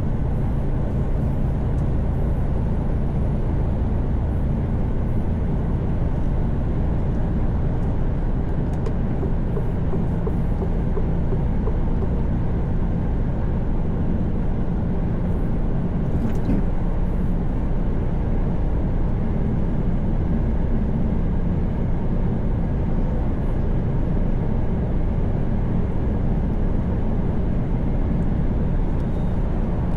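Mercedes-Benz Actros truck cruising at motorway speed, heard from inside the cab: a steady low engine drone mixed with tyre and road noise.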